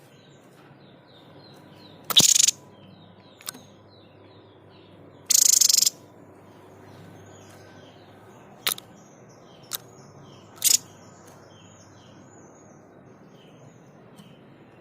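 White-chested babbler (the 'sniper' bird) giving a series of loud, sharp, harsh calls, the two longest about two and five seconds in, the rest short snaps later on. Behind them, many quick faint chirps run on.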